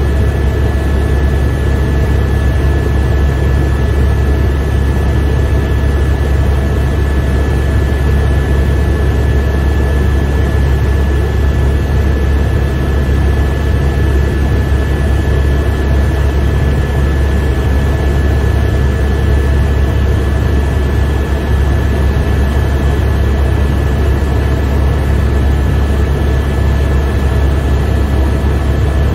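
Helicopter in flight, heard from inside the cabin: its rotor and turbine engine make a loud, steady low drone, with a steady high whine over it.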